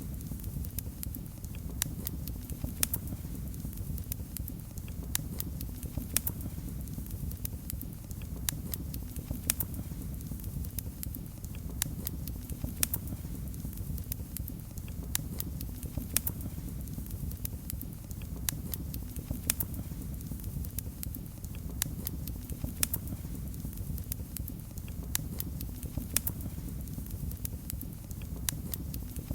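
Wood fire crackling, with sharp irregular pops and snaps over a steady low rumble of flames.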